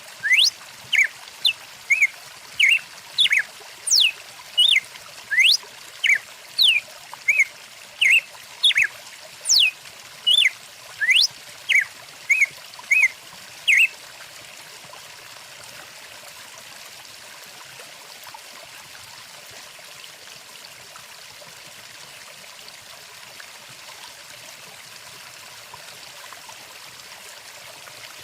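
Stream water flowing with a steady rushing hiss. Over it a bird calls in short whistled notes that glide up or down, about two a second, and falls silent about halfway through, leaving only the water.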